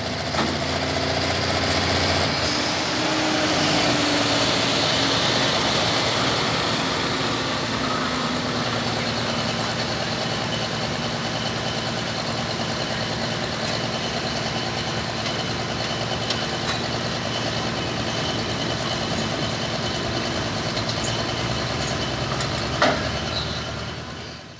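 Turbocharged diesel engine of a light limited super stock pulling tractor running hard and steadily under load during a pull. The sound fades and cuts off right at the end.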